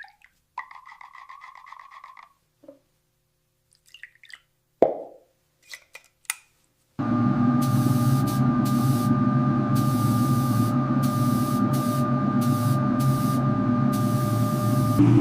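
Light clicks and a short rapid pulsing, then a single sharp knock about five seconds in. A little before halfway, a steady machine noise with a held hum starts suddenly, with bursts of hiss switching on and off over it.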